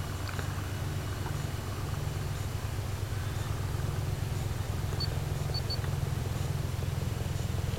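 Distant full-scale helicopter approaching: a low, rapid rotor throb that grows slowly louder.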